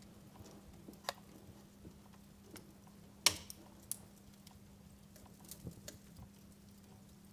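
Fire in a fireplace crackling quietly, with scattered sharp pops, the loudest a little over three seconds in, over a faint steady hiss.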